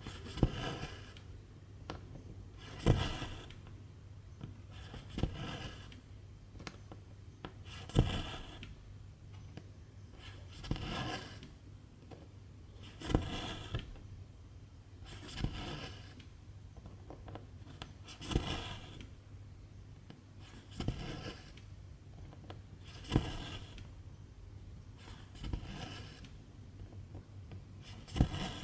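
Cross-stitch needle pushed through fabric and silk thread drawn through after it, over and over. Each stitch is a sharp tick followed by a short scratchy pull, repeating about every two and a half seconds.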